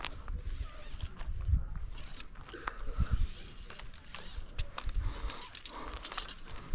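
Climbing rope and gear being handled: irregular rustling and light clicks, with low rumbles of wind or handling noise on the microphone.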